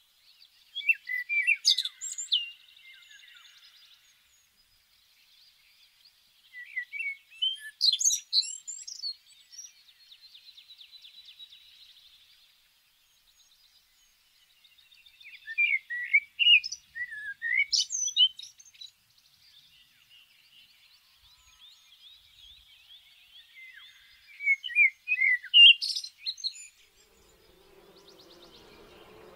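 A songbird singing four short phrases several seconds apart, each a burst of quick chirping and whistled notes followed by a softer, buzzy trill.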